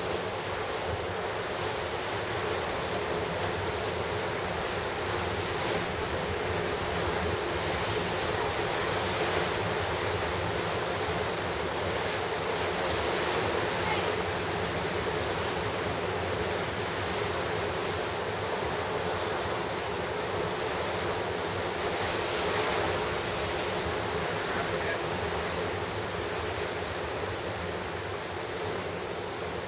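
Pacific surf breaking and washing on a rocky shore, a continuous rush with slight swells as waves come in, with wind buffeting the microphone.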